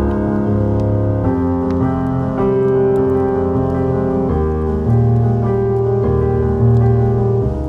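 Soft, slow piano music, held chords changing every second or so, with faint crackling from a fireplace ambience underneath.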